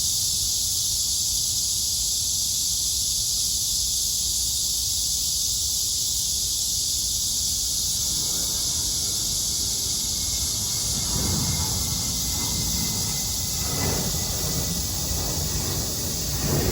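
A chorus of cicadas droning steadily in a high, even buzz. In the second half a low rumble builds up underneath.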